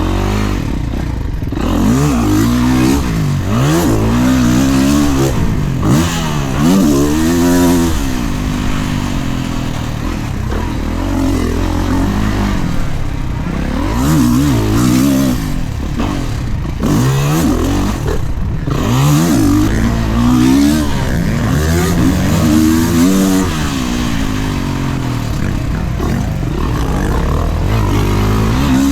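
Dirt bike engine revving hard and falling back again and again as the bike is ridden fast around a motocross track, the pitch rising and dropping every second or two.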